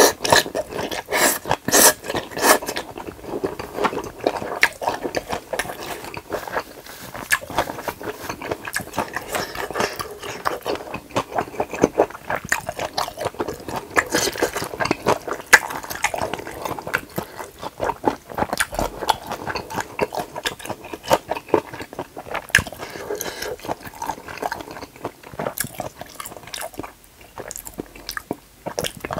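Close-up chewing of spicy stir-fried pork small and large intestines: steady wet, squishy mouth sounds dotted with many short sharp clicks.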